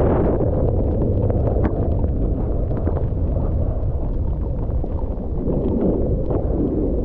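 Heavy wind buffeting the microphone of a camera carried on a snowboard run, a steady loud low rumble. Short scratchy clicks run through it.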